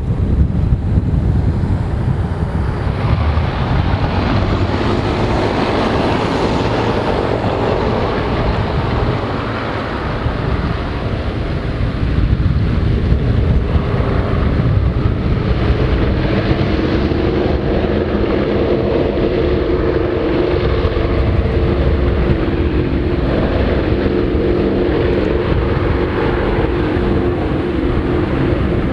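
Avro Lancaster's four Rolls-Royce Merlin V12 engines running, a steady drone that comes through more clearly about halfway through, under heavy wind rumble on the microphone.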